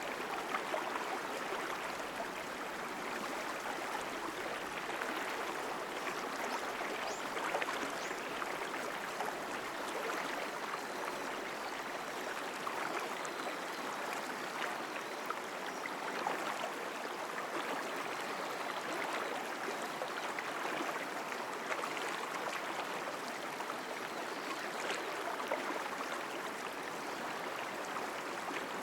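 Mountain stream flowing strongly: a steady rush of water with many small splashes throughout.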